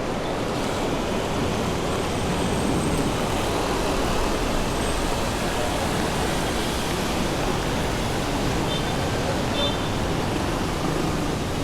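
Heavy rain with traffic on wet city roads: a steady, even rush of noise with a low rumble underneath.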